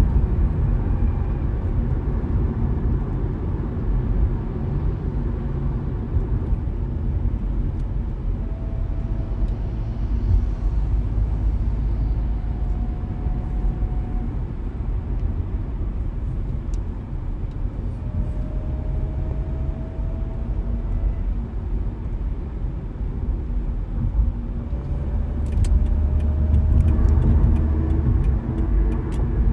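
A car driving on the road: a steady low rumble of road and engine noise, with faint slowly rising whines now and then and a run of light ticks near the end.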